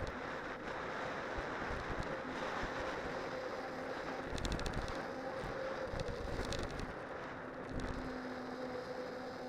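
Studded cyclocross tyres rolling on a winter road during a descent, with wind on the microphone: a steady rushing noise carrying a faint hum. Two short bursts of rapid ticking come about four and a half and six seconds in.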